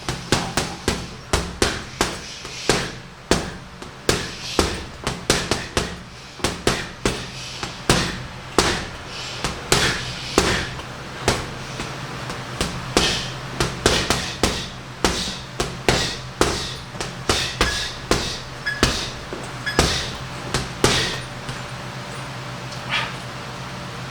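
Punches landing on a heavy bag: sharp thuds in quick combinations of two to four, many in a row, stopping a few seconds before the end.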